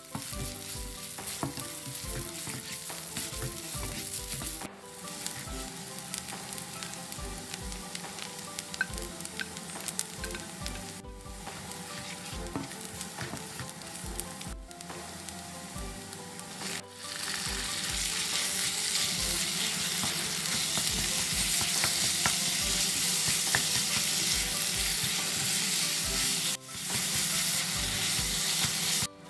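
Chopped onion sizzling in hot oil in a nonstick wok, stirred with a spatula. About two-thirds of the way through, raw ground chicken goes into the pan and the sizzling becomes louder and fuller.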